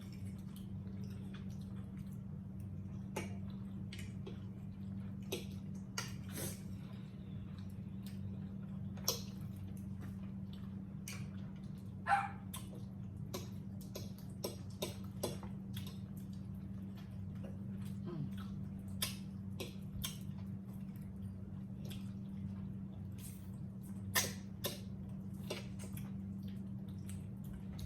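People eating roasted chicken and rice at the table: scattered short, sharp clicks and smacks of chewing and lips, with a brief squeak about twelve seconds in, over a steady low hum.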